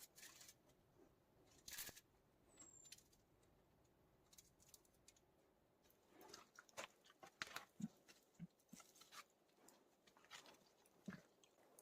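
Near silence, with a few faint clicks and taps past the middle.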